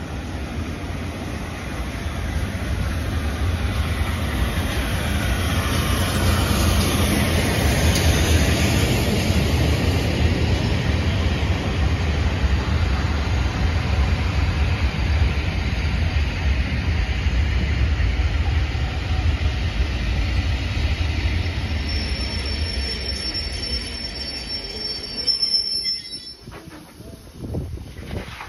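A steam-hauled train of coaches rolling in along the platform with a steady rumble of wheels on rail. Near the end the brakes give a high squeal as the train slows to a stand, and then the sound drops away.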